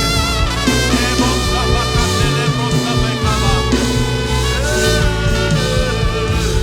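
Live worship band playing an upbeat instrumental passage, with a horn-like lead line over a steady beat.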